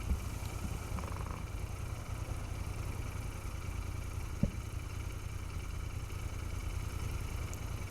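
Royal Enfield Continental GT650 being ridden: a steady low wind rumble buffeting the action-camera microphone, with the bike's 648 cc parallel-twin engine running underneath.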